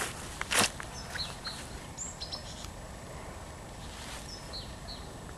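Small birds chirping outdoors: short, high, falling calls scattered through, over a steady background hiss. A single sharp knock about half a second in is the loudest sound.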